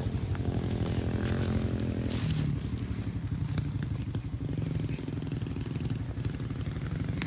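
125 cc Suzuki four-stroke dirt bike with an FMF exhaust running steadily, its engine note holding at an even speed.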